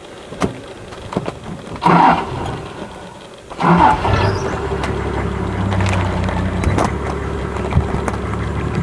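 Two short rising squeals, the second as a vehicle engine starts about three and a half seconds in; the engine then runs steadily at idle.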